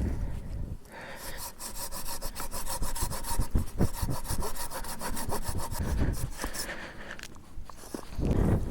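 Hand saw cutting wood in quick, even strokes, stopping shortly before the end.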